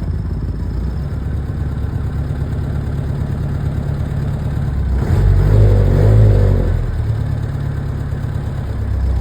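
An engine running at a steady idle, a low hum that swells louder for about two seconds past the middle.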